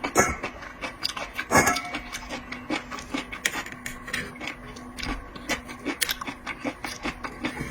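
Close-miked eating and handling of raw seafood: irregular clicks, taps and crackles, with a couple of louder cracks about a second and a half apart near the start.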